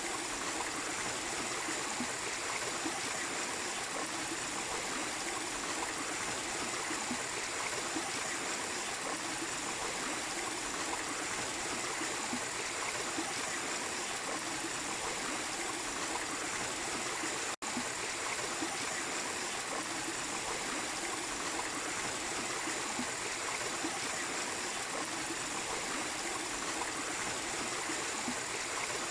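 Small waterfall and stream running: a steady, even rush of water. A split-second dropout comes a little past halfway through.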